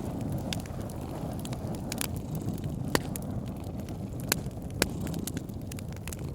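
Wood fire crackling in a fireplace: irregular sharp pops over a steady low rumble, with a few louder pops about three, four and five seconds in.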